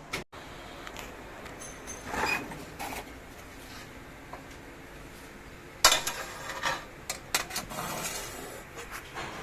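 Metal parts clinking and scraping as they are handled: a few knocks early, then a sharp clank about six seconds in followed by a run of rattles and taps.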